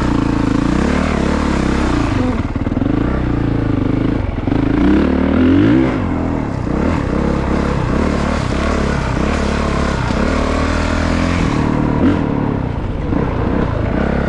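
Honda CRF450RX dirt bike's single-cylinder four-stroke engine running under constant throttle changes, its pitch rising and falling repeatedly as the bike is ridden through mud holes, loudest about five seconds in.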